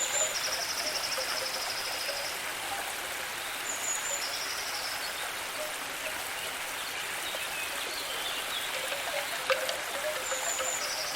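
Nature ambience: a steady water hiss like rain or a stream, with high pulsed trilling calls of one to two seconds, each opened by a short higher note, heard near the start, in the middle and again at the end.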